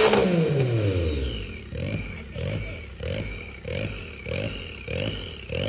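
Small turbocharged 660 cc three-cylinder car engine with a high-lift cam dropping from a rev back to idle. It then settles into an uneven, hunting idle that lopes about every half second or so, typical of an aggressive cam.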